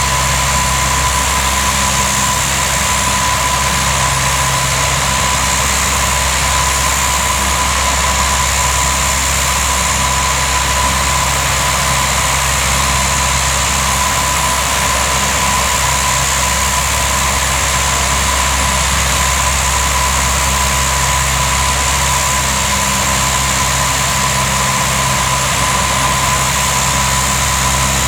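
Turbine of a Lockheed P-3C Orion running steadily on the ground: a constant high whine over a low drone, with no change in pitch.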